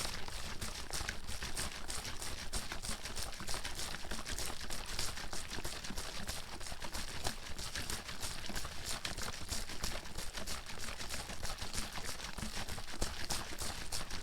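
A bottle of water shaken hard and continuously, the water sloshing and slapping inside in a fast, steady rhythm.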